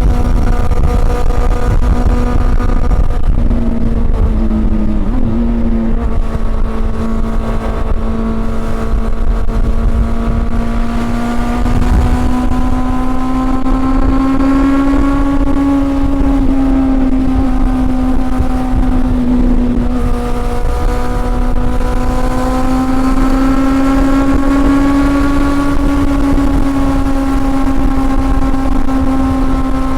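Honda CB400 Super Four's inline-four engine running steadily under way, its pitch rising and falling gently with a brief drop about four seconds in and again near twenty seconds, over a steady low rumble.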